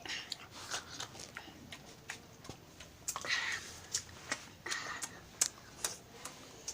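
Eating sounds: chewing and mouth smacking, heard as irregular wet clicks with a few longer smacks.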